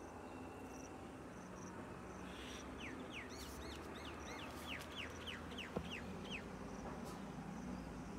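A bird calling: a quick run of about a dozen short, falling whistled notes, starting about three seconds in, over faint, evenly repeated high pips and a low steady hum.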